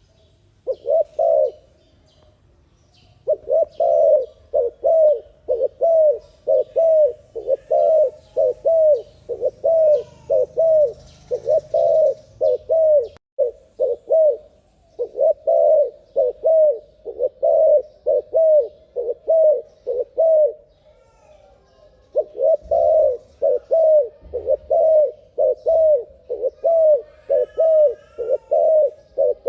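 Spotted dove (terkukur) cooing in a fast, sped-up recording: short coos repeated rapidly, about two to three a second, in long runs broken by a pause near the start and another about two-thirds of the way through.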